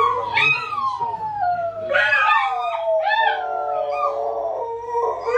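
Dog howling: a run of long howls, each rising briefly and then sliding down in pitch.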